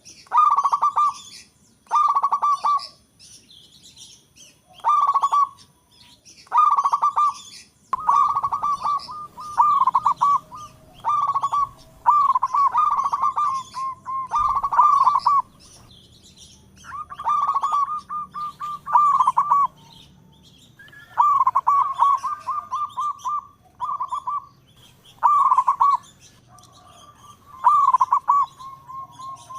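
Zebra dove (perkutut) cooing over and over: short rolling, trilled coos, one every second or two.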